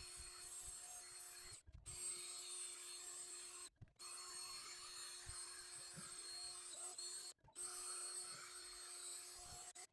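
A power tool spinning an abrasive disc, sanding the aluminum wheel's old finish, running steadily. The sound cuts out abruptly for a moment three times.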